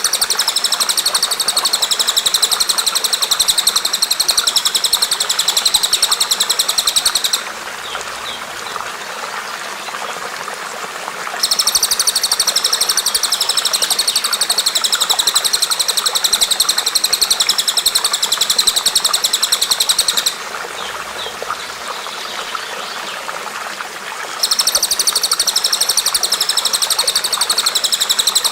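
Songbird singing a very rapid, even, high-pitched trill in three long bouts of several seconds each, with pauses of about four seconds between them. A steady hiss of running water continues underneath throughout.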